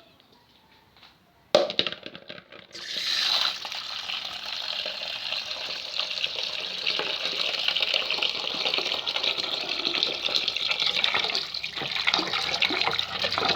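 A brief knock, then a water tap turned on about three seconds in and running steadily, water splashing into a sink.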